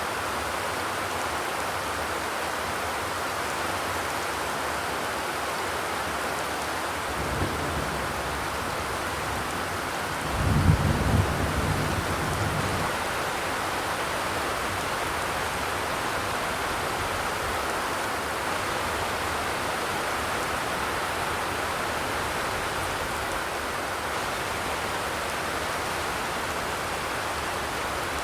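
Steady rain drumming on a zinc roof, an even hiss of drops. About ten seconds in, a brief low rumble rises over it for a couple of seconds, with a small knock a few seconds before.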